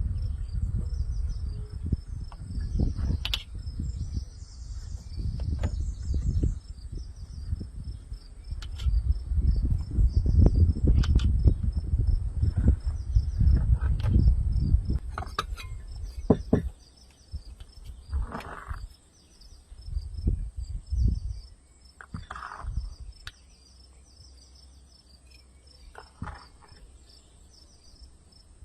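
Insects chirping steadily in a fast, even pulsing pattern, with a steady high buzz beneath. For the first half or so a loud low rumble and scattered knocks sit over it, then fade out, leaving the insects and a few brief mid-pitched calls.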